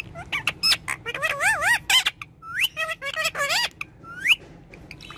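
Pet talking parrot chattering excitedly: a quick run of short squawks, clicks and wavering, whistle-like calls that stops about a second before the end.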